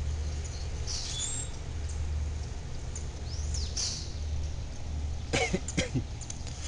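Birds chirping in short high calls, one sweeping in pitch, over a steady low rumble. About five seconds in come two short sharp sounds close together.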